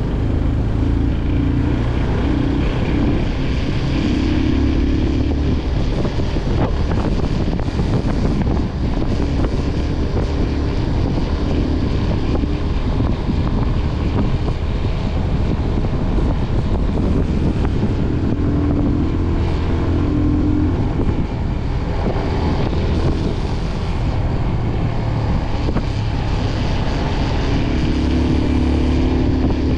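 Motorcycle engine running steadily while riding, its pitch shifting a little now and then, with wind rushing over the microphone.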